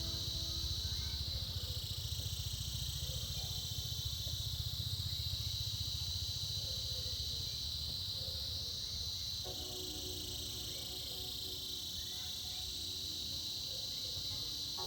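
Cicadas calling in a steady high-pitched chorus, with a higher layer swelling and fading every few seconds, over a low rumble. Low steady tones join past the middle.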